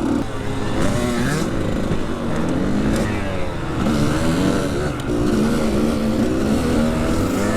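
Dirt bike engine revving, its pitch rising and falling again and again as the throttle opens and closes.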